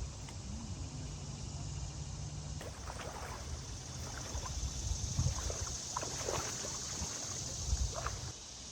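Creek water trickling and gurgling, starting about two and a half seconds in, over a steady low hum.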